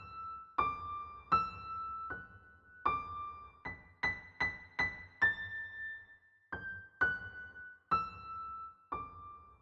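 Background music: a slow melody of single electric-piano notes, one after another, each ringing on briefly.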